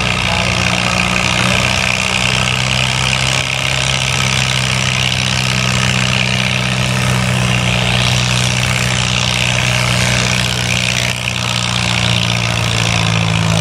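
Farm tractor engine running steadily at an even pitch, pulling a load down the tractor-pull track.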